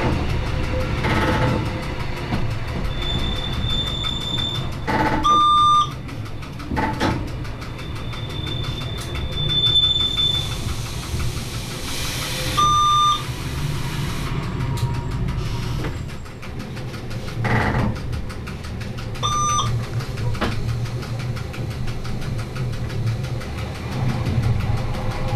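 Metre-gauge Rhaetian Railway electric train heard from the cab: a steady low running rumble with a few clicks over points and brief high wheel squeal on curves. Three short beeps about seven seconds apart are the loudest sounds.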